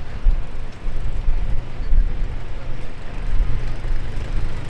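Gusty wind buffeting the microphone in a loud, uneven low rumble, over the steady hiss of heavy rain and passing street traffic.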